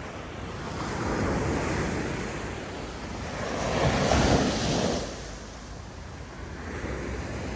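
Ocean surf breaking on a sandy beach: a wash of waves rising and falling twice, the louder wave crashing about four seconds in, with some wind buffeting the microphone.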